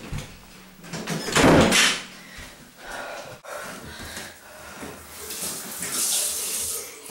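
A door bangs shut about a second in, the loudest sound. Then water runs and splashes in a bathroom sink near the end.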